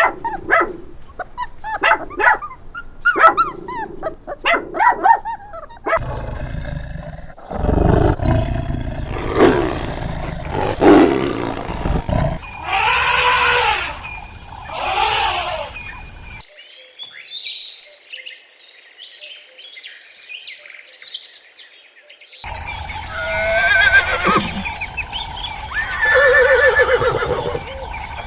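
A run of different wild animal calls, each lasting a few seconds and cutting abruptly to the next, including deep roars and growls. In the middle there is a stretch of high calls, and near the end more pitched, wavering calls.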